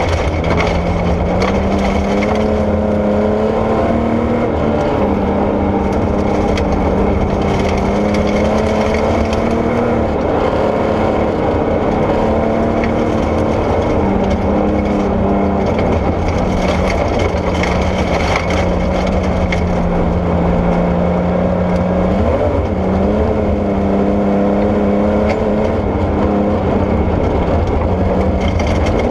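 Porsche 964 rally car's air-cooled flat-six engine pulling hard on a gravel stage. The engine note repeatedly climbs and then drops as it shifts, over a constant rushing noise from tyres and gravel.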